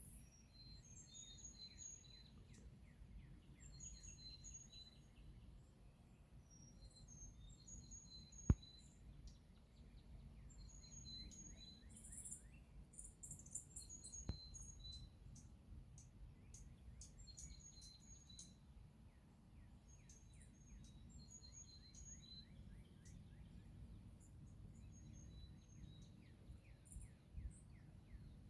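Birds singing and chirping: short high notes repeated in quick phrases again and again, faint over a low steady rumble. A single sharp click about eight seconds in, and a smaller one near fourteen seconds.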